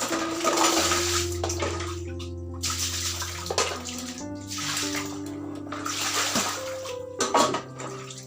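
Water running and splashing in several surges, over soft background music with long held notes.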